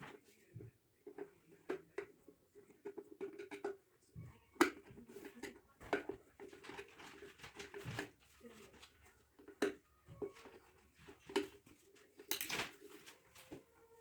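Scattered clicks, taps and knocks of an electric kettle's plastic and metal parts being handled and fitted back together, with a screw being driven back in; the sharpest knock comes near the end. A faint voice murmurs underneath.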